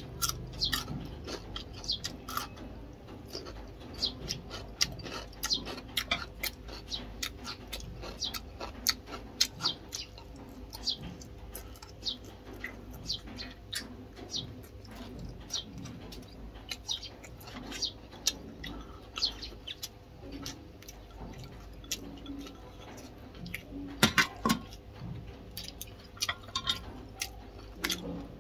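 Close-miked chewing of raw cucumber: irregular crisp crunches and wet mouth clicks and smacks, several a second, with a louder burst of crunching about 24 seconds in.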